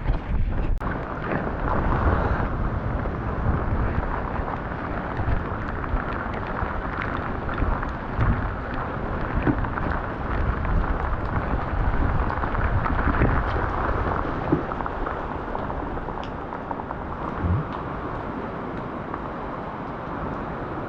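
Stormy weather: a steady rush of wind and rain, with gusts buffeting the microphone in a low rumble. It eases a little toward the end.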